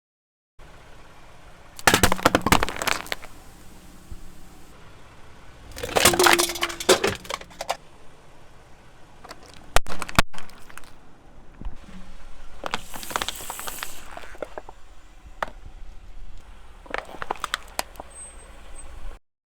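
Objects being crushed under a car's tyres, with crunching and cracking in several bursts: around two seconds in, around six seconds in, a single sharp crack near ten seconds, again around thirteen seconds and again near seventeen seconds.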